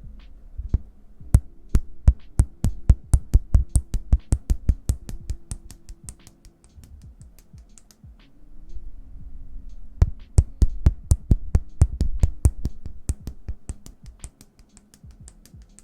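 Hands making sharp tapping strikes close to the microphone in two quick runs of several seconds each, a few strikes a second, with a quieter pause between the runs.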